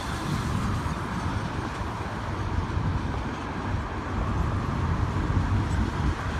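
Double-stack container train's loaded well cars rolling past on the rails, a steady low rumble of wheels with freeway traffic running beneath.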